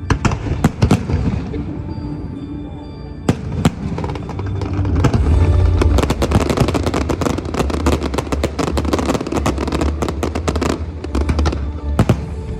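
Aerial fireworks bursting over music: scattered sharp bangs, then a dense run of crackling reports with a deep rumble from about four and a half seconds in to about eleven seconds, thinning out near the end.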